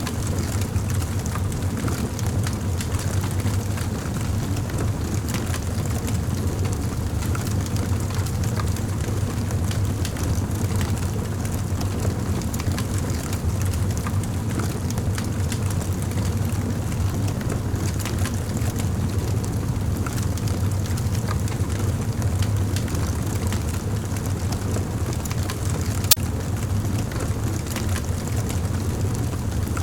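Campfire burning: a steady low rumble of flames with frequent small wood crackles, and one louder pop near the end.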